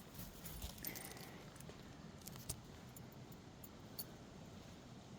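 Faint rustling and scattered light clicks of a person hitching up loose jeans.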